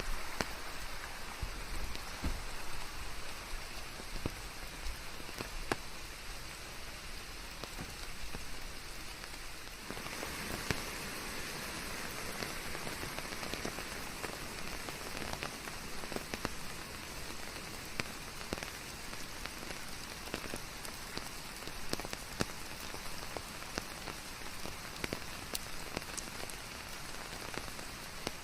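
Steady rain falling on leaves and surfaces, with individual drops ticking through a continuous hiss, which grows brighter and fuller about ten seconds in.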